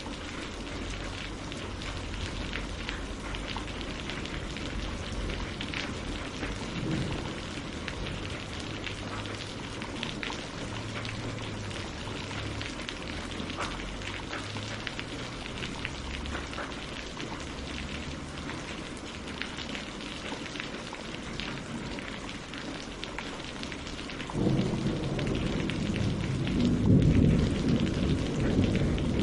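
Steady rain falling on lake water and tree leaves, with a patter of individual drops. About three-quarters of the way in, a louder deep rumble starts suddenly under the rain and keeps going.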